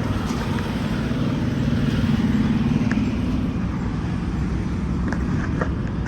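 Steady low rumble of an idling diesel truck engine, swelling slightly about two to three seconds in, with a few faint ticks.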